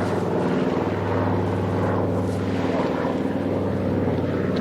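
Twin radial piston engines of a Catalina flying boat running steadily under power as it goes around after an aborted water landing.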